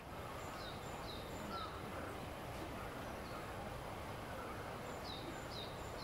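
Small songbird calls: short, high, downward-slurred notes in a run of three, then another run of three near the end, over a steady background hiss of park noise.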